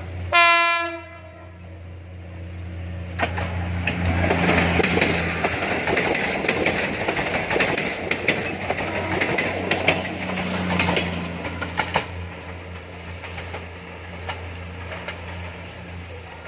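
PNR PT INKA diesel-hydraulic multiple unit sounding one short horn blast as it approaches, then passing close by: a steady diesel engine drone under rising wheel-on-rail noise with scattered clicks over the rail joints, fading away over the last few seconds.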